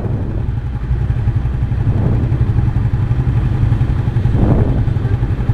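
Yamaha New Vixion Lightning's single-cylinder four-stroke engine running steadily on the move, a continuous low rumble.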